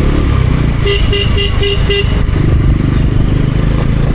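Bajaj Pulsar NS400Z's single-cylinder engine running while riding. About a second in, a vehicle horn gives five short toots in quick succession.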